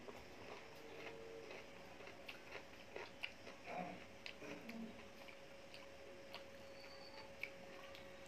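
Quiet chewing and wet mouth sounds of a person eating curry, rice and roti by hand, with scattered soft clicks and smacks over a faint steady hum.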